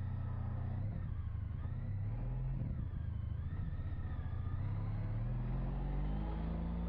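Honda CTX 1300's V4 engine running under way, heard from the rider's position. The engine note wavers about halfway through, then rises steadily as the bike accelerates.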